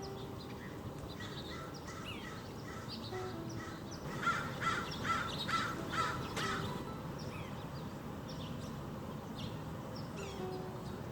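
Backyard birds calling: scattered short chirps throughout, and about four seconds in a bird gives a quick run of six loud calls, about two and a half a second.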